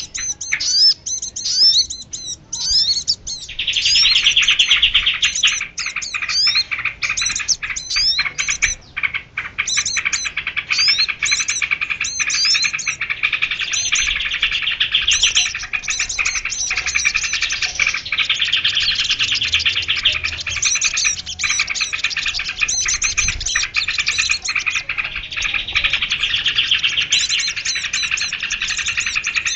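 Small birds chirping and twittering densely, with rapid trills and short rising notes overlapping almost without a break. It is a bird-lure (pikat) call recording of small songbirds.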